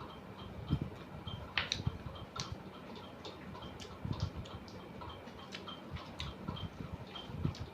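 Mouth sounds of someone eating rice and dal: chewing and wet lip-smacking clicks. Under them, a steady light ticking repeats about two to three times a second.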